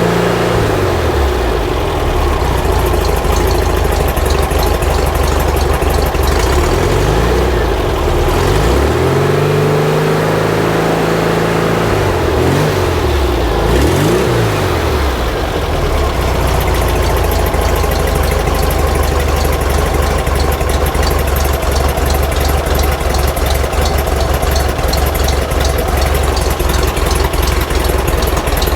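Air-cooled flat-four engine of a 1950s VW Bus running, revved up and down a few times, then settling into a steady idle from about halfway through.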